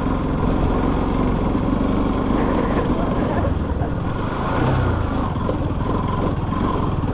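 Motorcycle running steadily while being ridden, a continuous engine drone.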